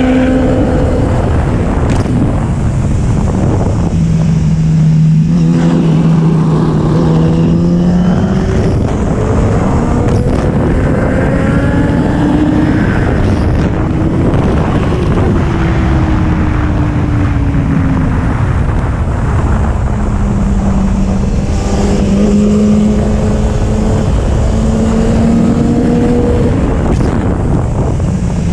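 2011 Kawasaki ZX-10R's inline-four engine pulling along a twisty road, its pitch repeatedly rising and falling with the throttle, under heavy wind noise on the microphone.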